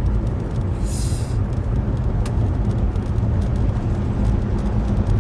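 Steady low road and engine rumble inside a moving car's cabin, with a short hiss about a second in and a few faint ticks.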